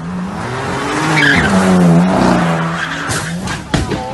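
A car skidding, tyres screeching over its running engine, swelling to its loudest about halfway, then sudden knocks near the end.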